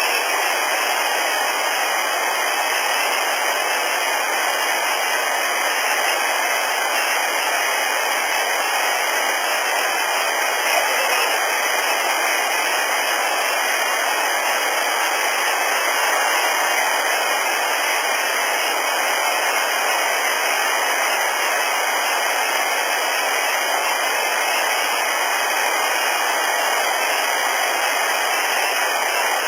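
Steady, even hiss with no distinct events: the background noise of a heavily amplified outdoor audio recording.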